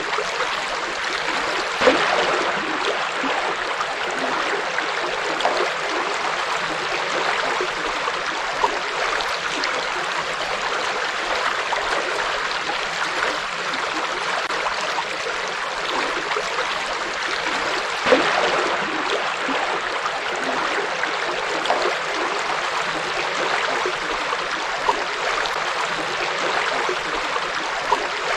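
A forest river flowing over rocks: a steady rush of water, with a few brief louder splashes, the clearest about two seconds in and about eighteen seconds in.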